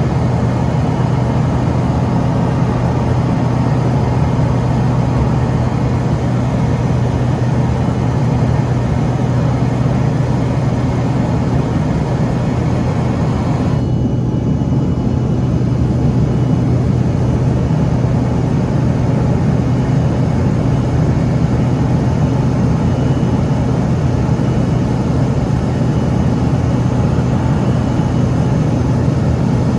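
Steady cabin noise inside an Embraer ERJ-145 regional jet: the drone of its two rear-mounted Rolls-Royce AE 3007 turbofans and rushing air, with a strong low hum underneath. The high hiss briefly dulls about fourteen seconds in.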